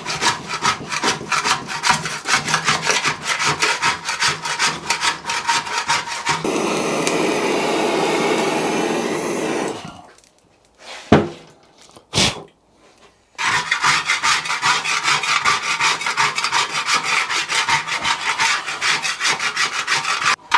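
Hand scraper scraping heat-softened tank sealer off a metal motorcycle fuel tank in quick strokes, about four a second. The scraping stops for a few seconds of steady hiss and a near-quiet gap with two sharp clicks, then resumes.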